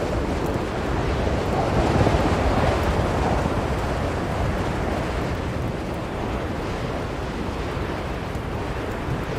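Strong blizzard wind blowing steadily, a deep rushing noise that swells about two seconds in and eases off a little in the second half.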